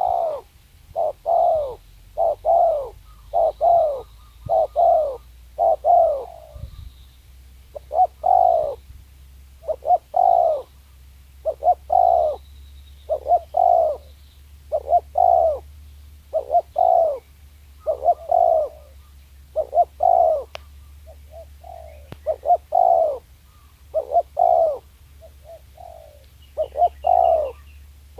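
Spotted dove cooing, repeating its phrase of two or three short coos every couple of seconds.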